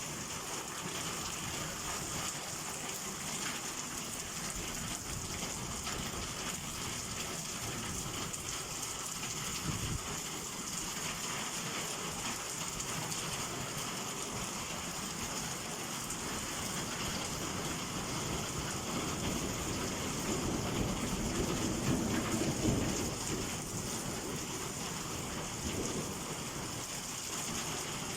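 Heavy summer downpour falling steadily, with a brief low thud about ten seconds in and a rumble of thunder that swells about twenty seconds in, peaks a couple of seconds later and fades.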